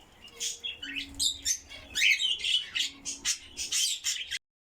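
Several pet birds in an aviary room chirping and squawking in quick, high calls, loudest about halfway through; the sound cuts off suddenly just before the end.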